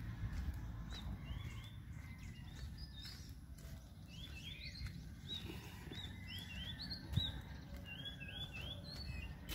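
Small birds chirping, short high calls repeated in quick runs of two or three, over a steady low rumble, with a dull knock about seven seconds in.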